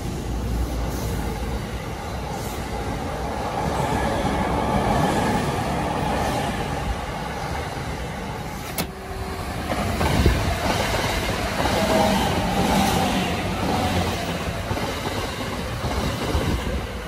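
E217 series electric multiple unit running along a station platform: the steady running noise of its wheels on the rails and its cars going by.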